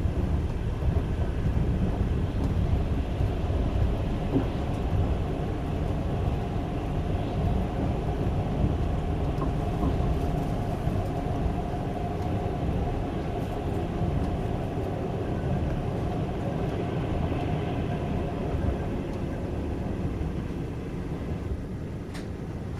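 Trans-Siberian Railway passenger train rolling on the rails, a steady low rumble heard from inside the carriage, with a faint steady whine in the middle that eases off a little near the end.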